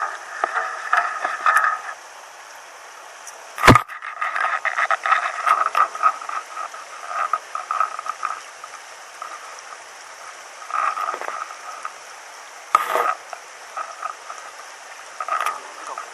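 Irregular splashing of stream water around a just-landed rainbow trout, with a sharp knock about four seconds in, over the steady rush of the stream.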